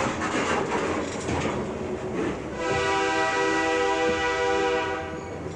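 Freight cars rolling slowly directly overhead, their wheels clattering over the rails. About two and a half seconds in, a train horn sounds one steady chord for about two and a half seconds.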